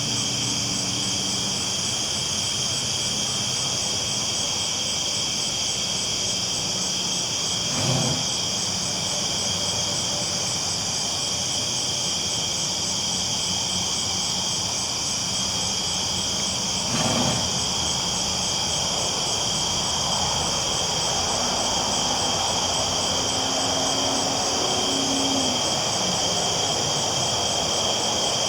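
Train rolling along the tracks with a low, steady rumble, under a continuous high chorus of night insects. Two brief knocks stand out, about a third and about two-thirds of the way through.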